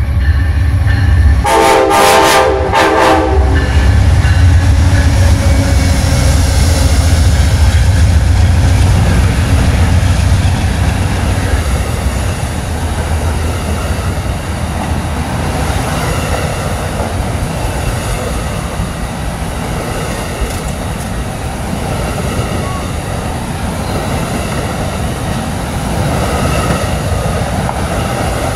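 Amtrak Auto Train passing at speed behind two GE Genesis P40DC diesel locomotives. Two horn blasts about two seconds in, the second short, then the locomotives' diesel engines rumble past. After that comes a long, steady rolling noise of Superliner bilevel cars running by on the rails.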